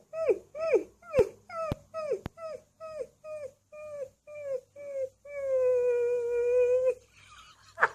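Alaskan Malamute puppy whining in a quick run of short cries that drop in pitch, about three a second, then holding one long, steady howl for nearly two seconds. A few sharp clicks come in the first couple of seconds.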